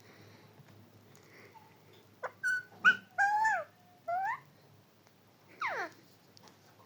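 Parrot giving a quick run of short pitched squawks and whistles, some bending up or down, starting about two seconds in, then one longer call falling in pitch near the end.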